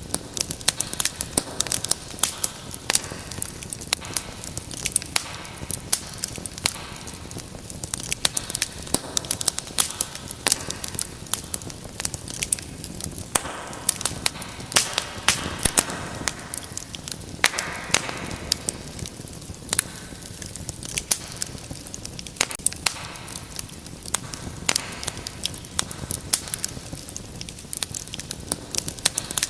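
Wood fire crackling in a fireplace: dense, irregular sharp pops and snaps over a steady hiss of burning.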